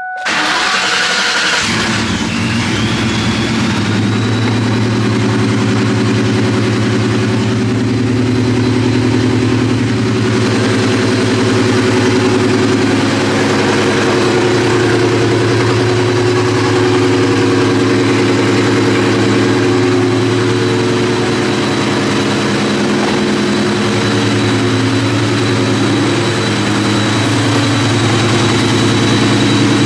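Supercharged 2004 Ford Mustang GT's 4.6-litre V8, through long-tube headers, a catless X-pipe and a Borla ATAK cat-back exhaust, starting up and settling into a steady, slightly uneven idle. A thin high whine rises over the first few seconds and then holds steady above the exhaust.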